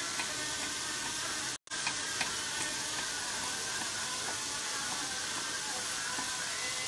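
Onions frying in olive oil in a cast-iron pot, a steady sizzle, with a few faint knife taps on a wooden chopping board as carrots are diced. The sound cuts out completely for a moment about one and a half seconds in.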